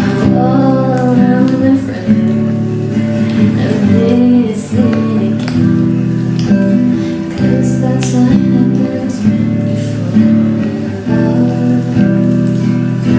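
Acoustic guitar song: strummed acoustic guitar chords with a voice singing the melody over them.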